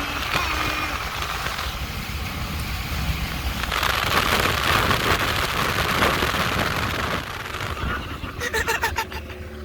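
Car driving hard at speed: engine and road noise throughout, with a louder rushing stretch about four seconds in and a few sharp clicks near the end.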